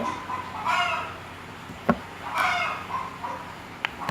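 Two short animal calls, about a second and a half apart, with two sharp clicks in between and near the end.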